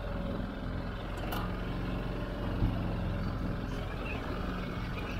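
Small boat's outboard motor running steadily at trolling speed, with two light knocks in the first half.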